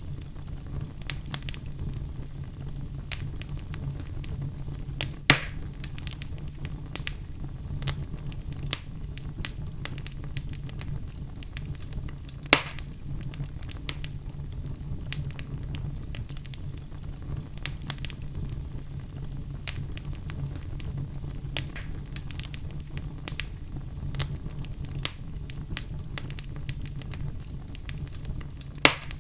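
Wood logs burning in a fireplace: a steady low rumble of flame with constant small crackles and three louder pops, about five seconds in, about twelve seconds in, and near the end.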